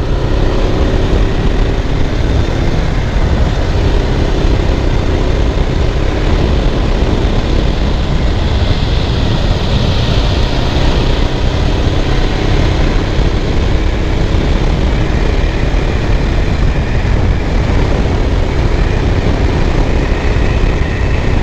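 Suzuki GS500F's air-cooled parallel-twin engine running steadily under way, with heavy wind rush over the helmet microphone. A high cicada chorus swells and fades around the middle.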